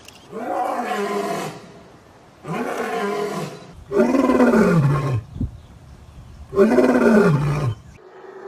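An animal calling four times, each drawn-out call about a second long, rising then falling in pitch; the third and fourth calls are the loudest.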